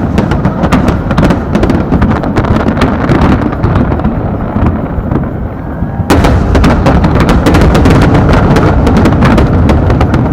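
Fireworks going off in rapid succession: a dense run of sharp cracks and booms over a constant low rumble, abruptly louder and denser from about six seconds in.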